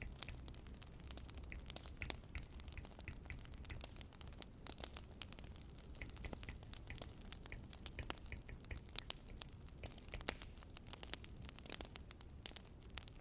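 Wood fire crackling: many irregular sharp pops and snaps of varying strength over a faint low rumble.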